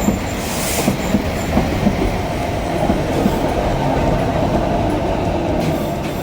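Narrow-gauge (762 mm) Sangi Railway Hokusei Line electric train running on the rails: a steady rumble with irregular clicks of the wheels over the track. It swells a little and eases near the end.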